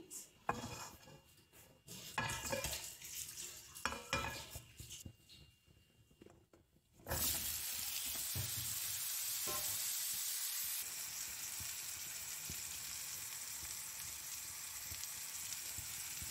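Masala-coated brinjal (eggplant) slices shallow-frying in oil in a pan: a steady sizzle that starts suddenly about seven seconds in and eases slightly a few seconds later. Before it, scattered light clicks and knocks.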